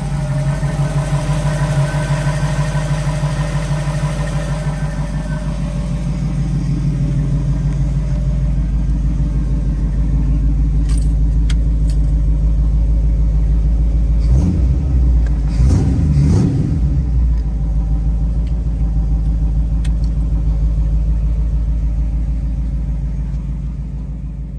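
Engine of a 1931 Ford Model A five-window coupe street rod idling with a pulsing beat, given a few short revs about two-thirds of the way through before settling back to idle.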